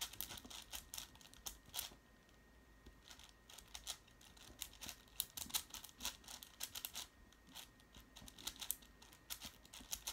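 A 6x6 Rubik's cube being turned by hand: quick, irregular clicking and clacking of its plastic layers, several turns a second, with a short lull about two seconds in.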